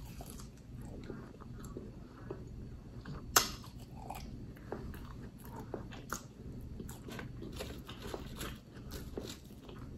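Close-miked mouth sounds of a person chewing a mouthful of Del Taco crinkle-cut fries dipped in sauce: wet chewing with scattered smacks and clicks, the sharpest about three and a half seconds in.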